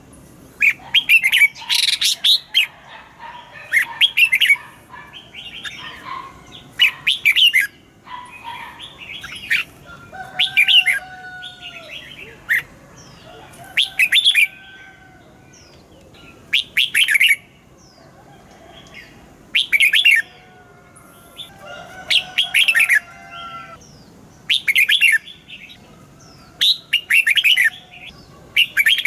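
Red-whiskered bulbul singing: short, loud warbled phrases repeated every two to three seconds, with fainter, lower gliding whistles from another bird between them.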